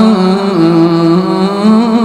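A reciter's voice chanting Quran recitation in melodic tajweed style, holding one long, unbroken note that dips in pitch and rises again near the end.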